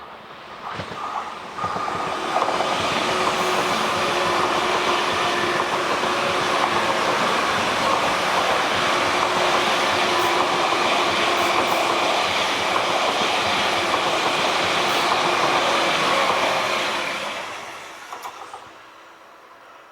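ICE train passing at speed on the rails, a steady rush of wheel and rail noise with some clickety-clack. It swells in over the first two seconds, holds for about fifteen seconds, and fades away near the end.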